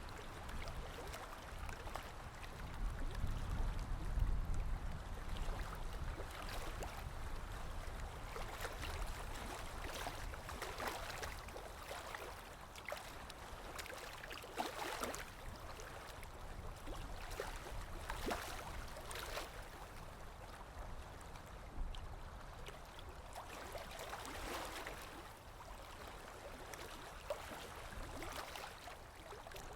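Sea waves washing and splashing: a continuous wash of water with a deeper swell about three to five seconds in and irregular splashes breaking through it.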